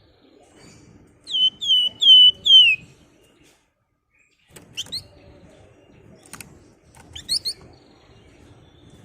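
Flamboyan songbird calling: four quick, loud downslurred whistles about a second in, followed by a few short, sharp upslurred chip notes.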